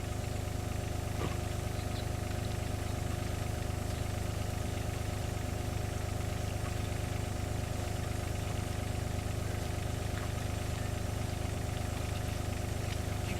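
An engine idling steadily, a constant low hum with a few steady tones over it and no change in speed.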